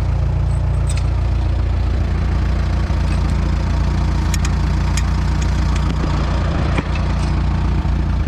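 Allis-Chalmers WD tractor's four-cylinder engine idling steadily, with a few sharp clicks over it about a second in and again around four to seven seconds in.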